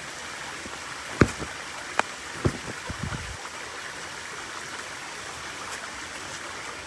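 Steady rush of a flowing stream, with a few close knocks and clatters: a sharp one about a second in, then more over the next two seconds.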